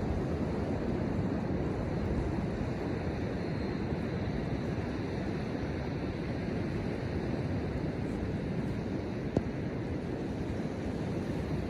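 Steady rush of ocean surf and wind on a snowy beach, with wind buffeting the microphone, and a single sharp click about nine seconds in.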